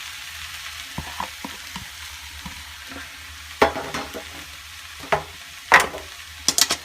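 Spinach and mashed-potato mixture sizzling in a frying pan while a spoon stirs it, with sharp clacks of the spoon against the pan about three and a half seconds in, twice more later and a quick cluster near the end.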